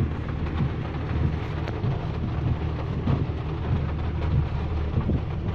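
Steady rainstorm noise: rain falling with gusting wind buffeting the microphone, a continuous low rumble under a hiss.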